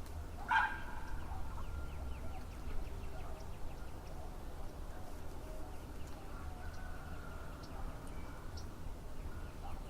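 A single short, loud bird call about half a second in, probably from a fowl, followed by faint quick ticking chirps over a steady low rumble.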